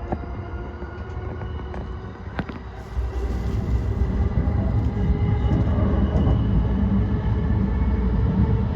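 E235 series electric train running on the Yokosuka Line, heard from on board at the front, with faint steady whine tones and a couple of clicks. About three seconds in, the running noise turns into a louder, heavier low rumble that holds steady.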